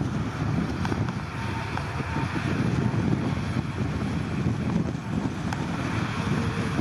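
Diesel engine of heavy earthmoving equipment running steadily, a low, unbroken rumble with wind buffeting the microphone.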